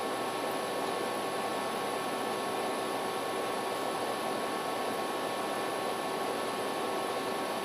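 Steady hiss with a few faint, steady high tones over it, unchanging throughout.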